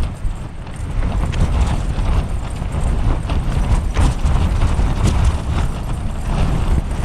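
Strong wind gusting over the microphone as a heavy low rumble, with sharp flaps and knocks every so often.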